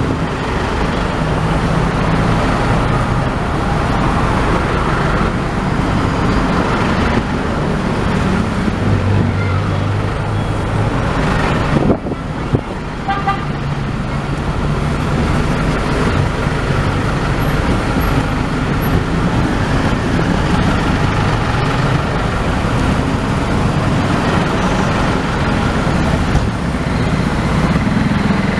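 Road traffic and a motor vehicle's engine running, its pitch rising and falling as it drives, with a brief knock about twelve seconds in.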